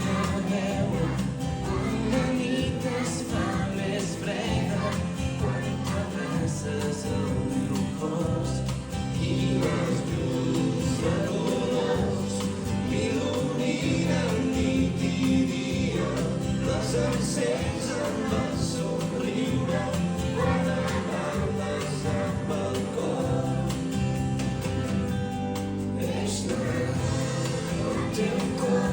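A choir singing a song over musical accompaniment.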